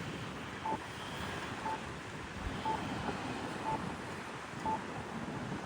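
A short electronic beep at one steady pitch, repeating evenly about once a second, over a steady outdoor hum of wind and traffic.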